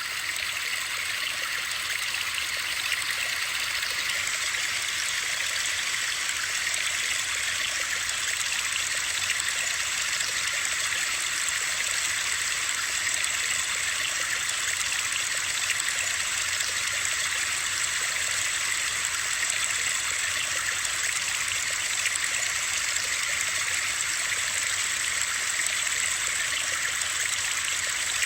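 Steady white-noise hiss with a rushing, water-like quality, mostly high-pitched with little low end, holding level without change.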